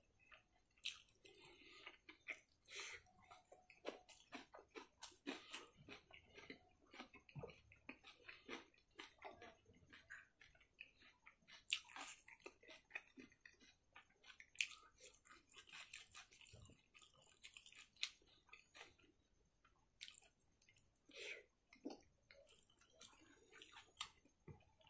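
Close-up chewing and wet mouth sounds of a person eating rice and pork by hand: a dense run of soft smacks and sharp clicks throughout.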